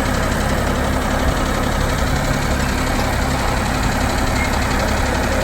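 Engine of a Vermeer Flex Track 75 tracked backhoe/trencher idling steadily.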